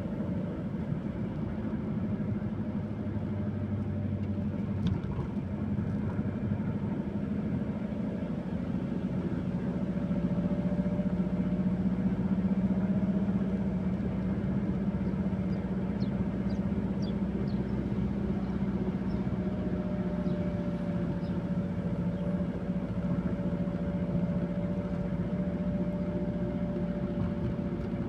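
A motor vehicle's engine running steadily, its hum drifting slowly in pitch, with a few faint short high chirps partway through.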